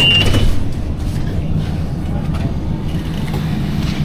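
Inside an Inekon streetcar: the steady low rumble and hum of the car, with the last of a high beeping tone cutting off in the first moments.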